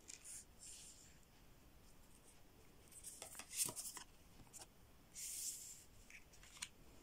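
Tarot cards being slid and laid down on a table: soft, faint swishes and light taps, with the loudest cluster of brushing and clicks about three and a half seconds in and a longer swish about five seconds in.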